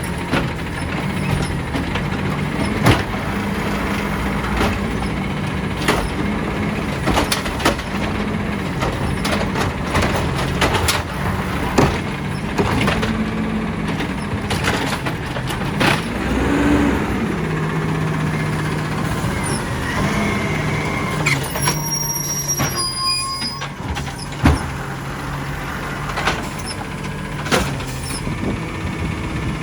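Side-loader garbage truck at work: diesel engine running steadily under many sharp knocks and clanks, with brief air hisses.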